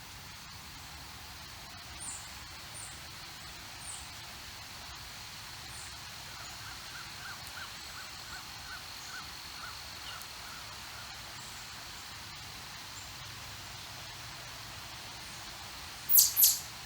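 Small birds calling: scattered short, high chirps, then a run of quick repeated notes, about three or four a second, for several seconds. Two loud, sharp chirps in quick succession near the end, over a faint steady high-pitched hum.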